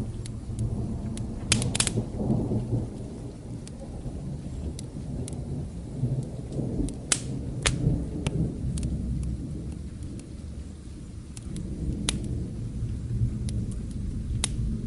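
Low rolling thunder rumbling over steady rain, swelling in the first few seconds and again near the end. Sharp crackles and pops from a wood fire come every few seconds on top.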